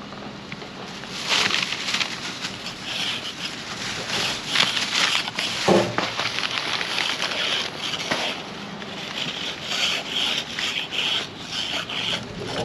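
Footsteps crunching through snow: an irregular series of rough crunches.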